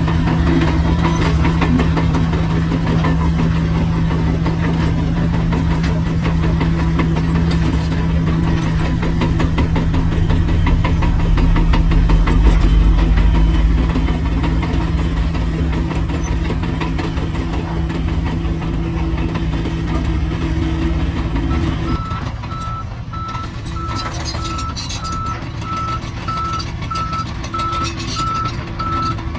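Heavy diesel construction machinery running steadily, with a deep rumble that swells about twelve seconds in as the engine works harder. About two-thirds of the way through, a reversing alarm starts beeping steadily at one pitch while the engine keeps running.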